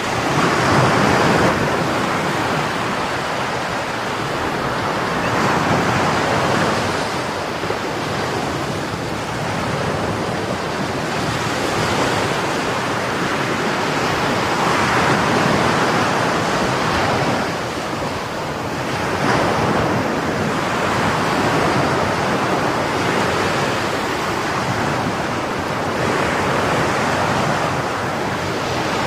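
Sea waves breaking and surging on the shore, the rush of surf swelling and easing every few seconds, with some wind on the microphone.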